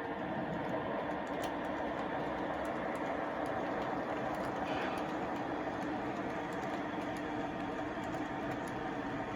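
MTH RailKing SW1500 O-gauge model diesel switcher running along its track: a steady rolling and motor hum, with the locomotive's diesel engine sound effects and a few faint clicks of wheels over rail joints.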